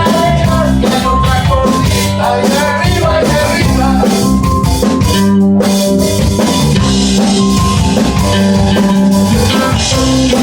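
Live band playing music with a drum kit and singing.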